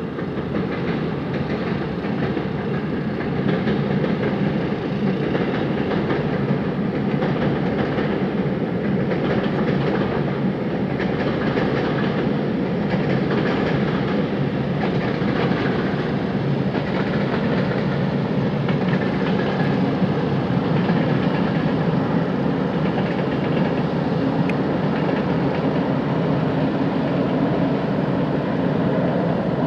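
Electric-locomotive-hauled passenger train running along the line and over a railway bridge, heard across open water: a steady rumble of wheels on rails with faint clicks over rail joints.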